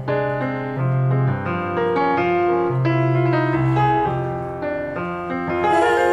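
Piano playing an instrumental passage of a slow Latin ballad, held chords over a steady bass line with no singing; a brighter layer of sound comes in near the end.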